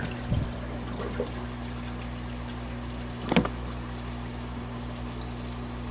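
Small portable washing machine running, a steady motor hum under the sound of moving water, with two short knocks: one just after the start and a louder one about three seconds in.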